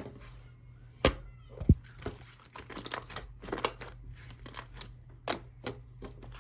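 Hands squeezing and pressing yellow slime, making irregular sticky clicks and crackles, with two louder pops in the first two seconds.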